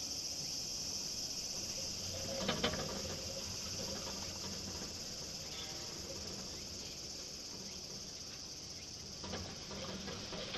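Steady high-pitched insect chorus, with a couple of faint knocks, one about two and a half seconds in and another near the end.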